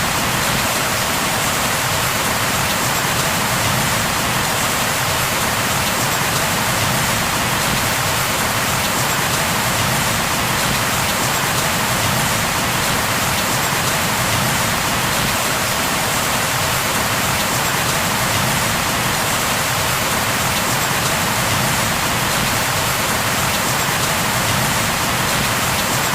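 Steady rain falling on a surface, an even, continuous hiss.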